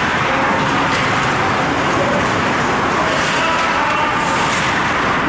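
Steady ice-rink ambience: a continuous crowd murmur with faint distant voices.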